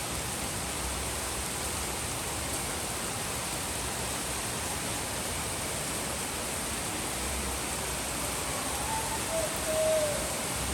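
Steady rain falling, an even hiss that holds a constant level, with a brief faint pitched call that bends downward near the end.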